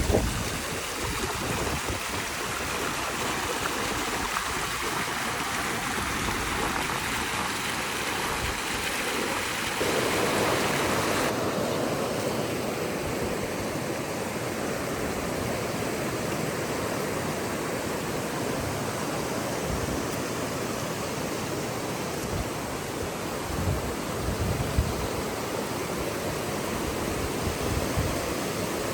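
Creek water flowing steadily, a continuous rushing hiss that shifts in tone about ten seconds in.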